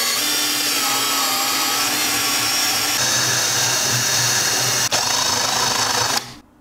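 Electric drill boring a 12 mm hole through the MDF wall of a wooden box, running steadily and stopping suddenly about six seconds in.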